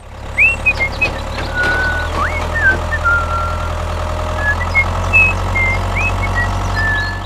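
A small engine running steadily with a low drone, with short high whistled chirps scattered over it.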